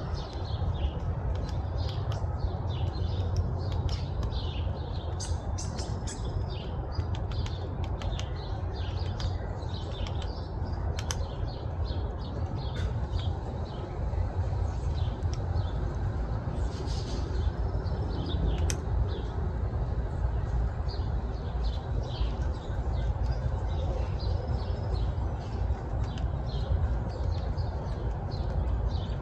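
Small birds chirping over and over, short high calls packed close together, with a few sharp taps, over a steady low rumble.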